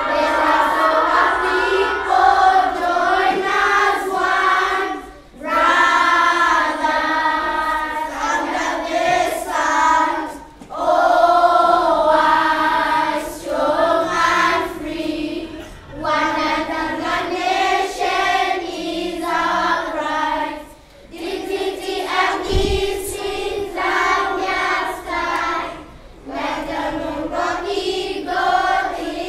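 A group of children singing together in chorus, in phrases of about five seconds with short breaks between them.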